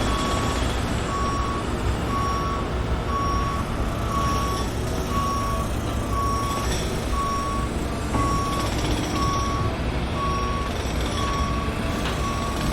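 A truck's reversing alarm beeping at one pitch, about once a second, over the steady low rumble of its engine. The beeping stops near the end.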